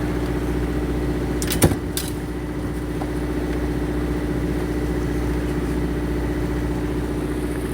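A fishing boat's engine running at a steady drone, with a constant hum and low rumble. A couple of sharp clacks come about a second and a half to two seconds in.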